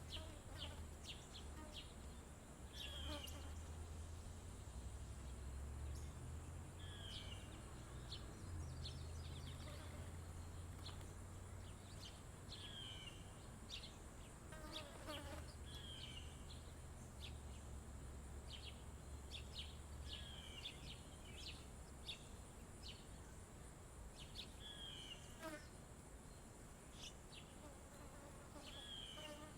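Summer outdoor ambience: a steady high-pitched insect drone, with small birds giving short chirps and falling slurred calls every second or two. A low rumble sits underneath and fades out about two-thirds of the way through.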